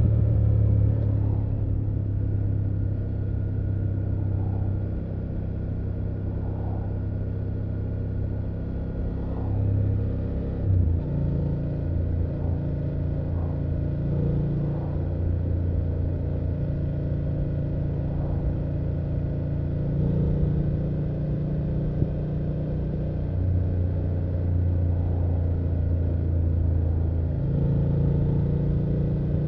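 2024 BMW F800GS parallel-twin engine running under way. Its drone steps up and down in pitch several times as the throttle and gears change.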